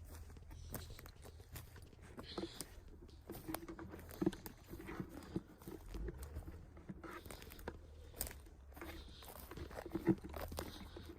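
Irregular crunching and snapping of forest-floor litter, with scattered sharp clicks and rustles throughout and no steady rhythm.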